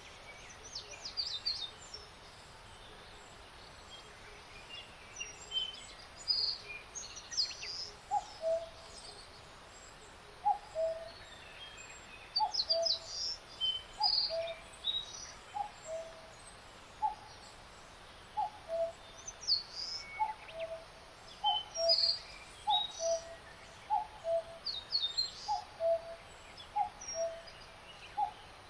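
Birdsong: short high chirps from small birds, and from about eight seconds in a low two-note call, the second note lower, repeated roughly once a second.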